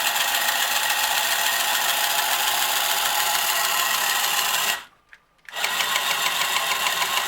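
Motor and gears of a 1965 Marx Moon Scout tin toy helicopter whirring steadily. It stops for about half a second near two-thirds of the way through, then starts again. The owner guesses the gears inside are wearing out and not meshing as well as they should.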